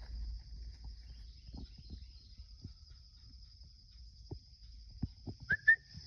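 Steady high-pitched drone of insects, with scattered light taps and crunches of footsteps on a trail. Near the end come two short, sharp chirp-like calls, the loudest sounds here.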